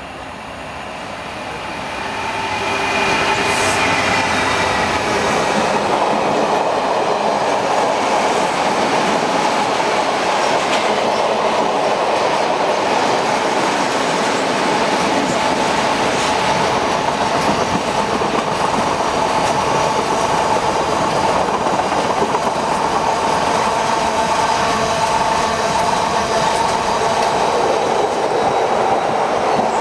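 Class 66 diesel freight locomotive with a two-stroke V12 engine approaching and passing, rising to full loudness over the first three seconds. Then a long rake of empty car-carrier wagons rolls steadily past with loud wheel-on-rail noise and some clickety-clack.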